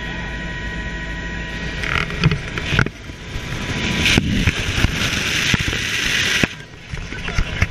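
Helicopter in flight: steady rotor and engine noise with a constant high whine. A louder rushing of air swells for a couple of seconds past the middle.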